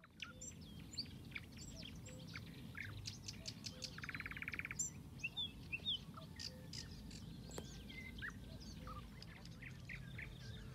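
Several songbirds chirping and whistling in short calls over a steady low background rumble, with a brief buzzy trill about four seconds in.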